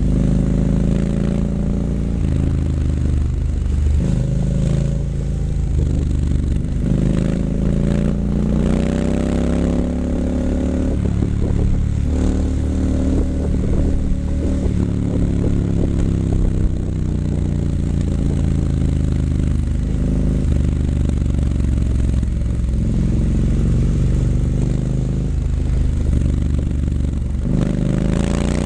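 2019 Triumph Scrambler 900's parallel-twin engine through an H-pipe with Vance & Hines mufflers, its exhaust note rising and falling several times as the throttle is opened and eased off, with a quick rise in revs near the end.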